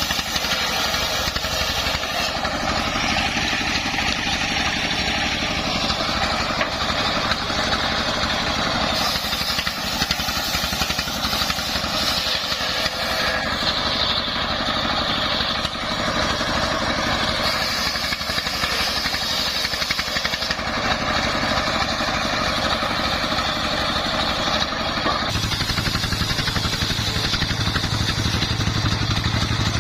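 Dongfeng 24 hp single-cylinder diesel engine running steadily under load, driving a homemade circular sawmill, with the saw's hissing whine above it changing every few seconds. About 25 seconds in the higher noise drops back and the engine's deep hum comes forward.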